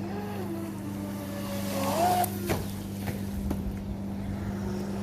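Brushless electric motor of a Volantex Vector Pro Angry Shark RC boat running on a 4S battery out on the water: a whine that rises and falls with the throttle, climbing and getting louder about two seconds in, over a steady low hum.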